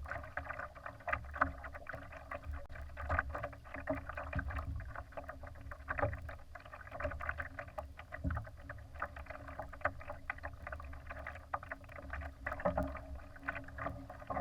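Water splashing and slapping irregularly against the hull of a Laser sailing dinghy as it moves through the water, over a steady low rumble.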